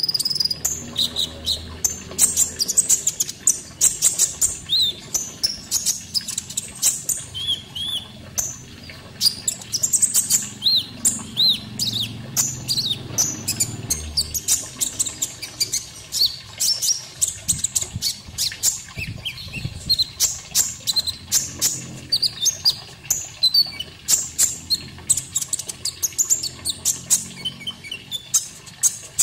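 Kolibri ninja (purple-throated sunbird) song: a fast, continuous run of sharp high chips and short quick trills, over a faint background of running water.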